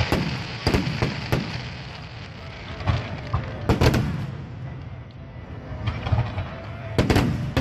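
Aerial fireworks bursting overhead: a run of sharp bangs, three in the first second and a half, a tight cluster near the middle and another near the end, over a crowd murmuring.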